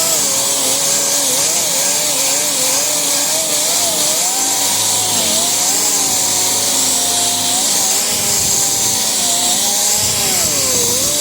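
Power sander with a 36-grit 8-inch disc grinding Bondo body filler off a car's quarter panel. It runs at high speed with a loud hiss of abrasion, and its pitch dips and recovers as the disc is pressed into the filler and eased off.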